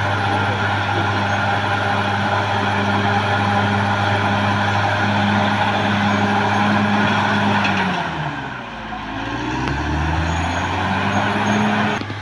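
Caterpillar D6R XL bulldozer's diesel engine running steadily while working. About eight seconds in, the engine speed drops and then climbs back up over a couple of seconds.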